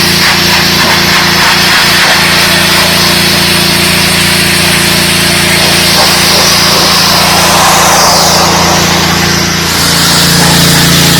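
Dewalt 3600 psi gas pressure washer running steadily, its small engine humming under the loud hiss of the high-pressure water spray striking concrete. Near the end the level dips briefly and the engine tone comes back stronger.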